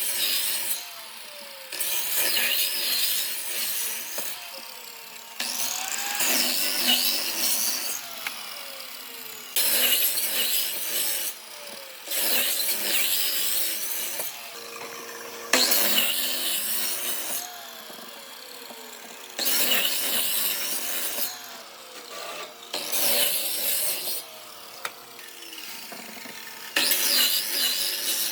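A power tool cutting or abrading old railway-sleeper wood in repeated passes, each one to two seconds long with quieter pauses between.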